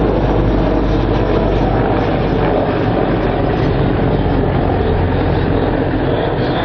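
Helicopter in flight at close range, its rotor and engines making a loud, steady din.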